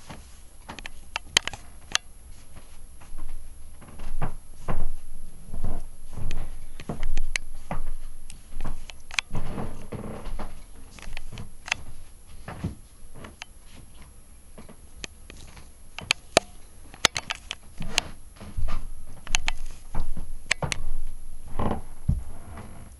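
Irregular light knocks, taps and scuffles, some close together, with a few louder thumps and a quieter stretch midway.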